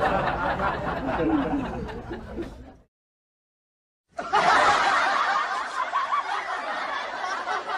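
Dubbed-in comedy laughter, chuckling and snickering, that fades away, drops to dead silence for about a second, then starts again abruptly about four seconds in.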